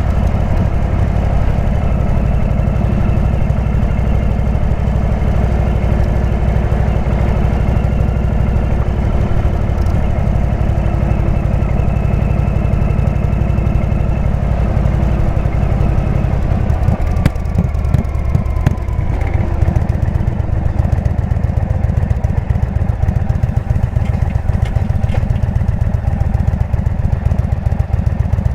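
Indian V-twin motorcycle engine with a Jekill & Hyde exhaust running steadily; about two-thirds of the way through, the engine note falls and shifts, then settles again.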